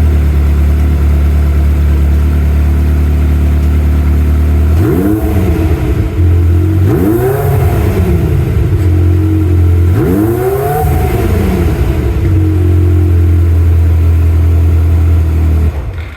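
Ferrari F355's 3.5-litre V8 idling through its standard factory exhaust, blipped three times in light revs that rise and fall in pitch, then cutting off suddenly near the end.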